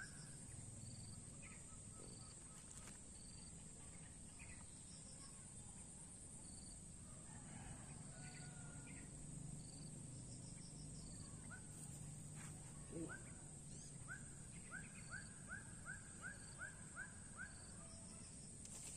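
Quiet rural outdoor ambience with a steady high hiss and faint, evenly repeated short calls. Near the end a bird gives a run of about eight short rising chirps, roughly four a second.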